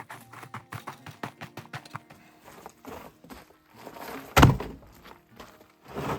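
Background music with a quick plucked rhythm, then one loud, heavy thunk about four and a half seconds in and a smaller one near the end.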